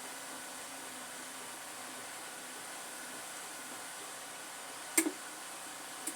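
Steady hiss, with a sharp knock about five seconds in that comes as a quick double and a lighter knock near the end.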